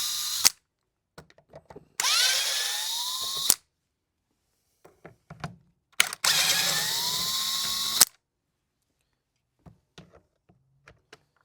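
Power drill/driver backing screws out of a chainsaw's starter housing. It makes short runs, each rising in pitch as the motor spins up and stopping abruptly: the tail of one at the start, then two more about 2 and 6 seconds in. Light clicks of handling fall between them.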